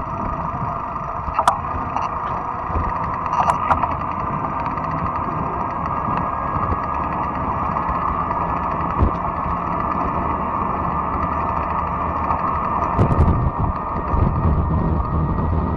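Riding noise of a fat-tire electric bike: steady tyre and drivetrain noise with low wind rumble on the microphone. A few sharp clicks or rattles come through, about a second and a half in, around three and a half seconds, and again near the end.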